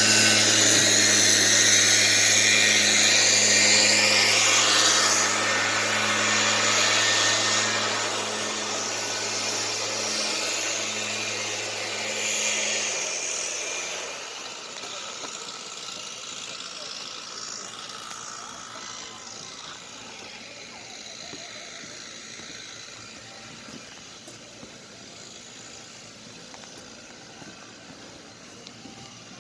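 A steady, loud mechanical hum over a rushing hiss, like a running motor, which cuts off suddenly about thirteen seconds in, leaving faint background noise.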